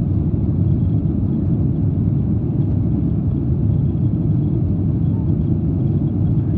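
Steady low rumble of a jet airliner's engines and rushing air, heard from inside the passenger cabin, level and unchanging.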